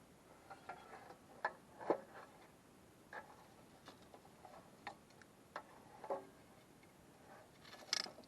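Wood campfire crackling: irregular sharp snaps and pops, one or two a second, over a faint hiss.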